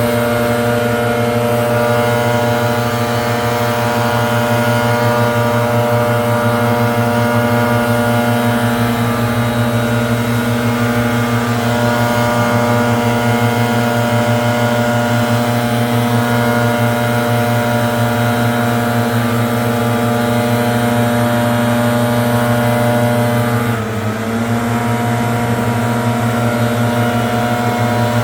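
Gas-powered leaf blower running loudly and steadily. Near the end the engine speed dips briefly and then settles again.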